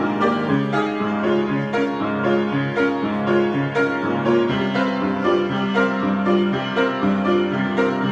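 Solo piano improvising: a steady run of notes and chords that ring on under one another.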